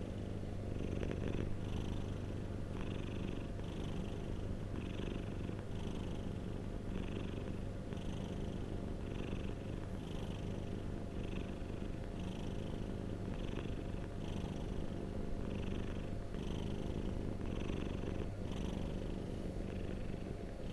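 Domestic cat purring steadily, with a rhythmic rise and fall about once a second.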